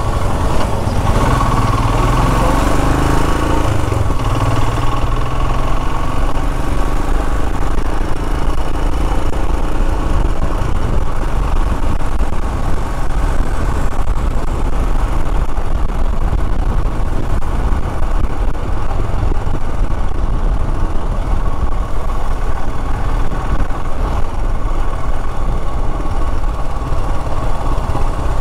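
Royal Enfield Himalayan's single-cylinder engine running steadily on the move, with continuous road noise; its note rises over the first few seconds as the bike picks up speed.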